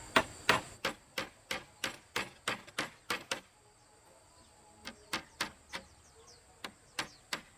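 Quick, regular blows of a hand tool, about three strikes a second, in a long run and then two shorter runs after a brief pause.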